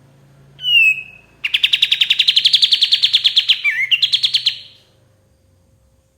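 Kapas tembak songbird singing: a short falling whistle, then a fast, loud trill of rapidly repeated notes lasting about three seconds, with a brief hitch partway through. A faint steady hum sits underneath.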